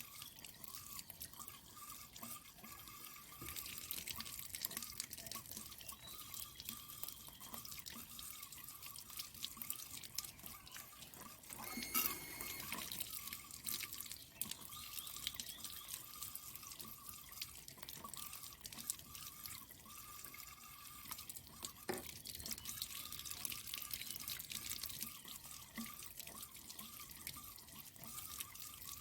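Water dripping and splashing as a water-tank filter for stream water is rinsed by hand. There is one brief sharper sound about twelve seconds in.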